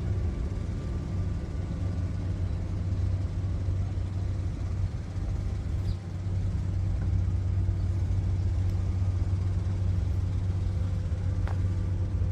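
An engine running steadily: an even low drone with no change in speed.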